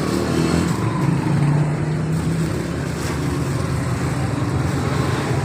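A motor engine running steadily, with a low hum and a wash of street traffic noise.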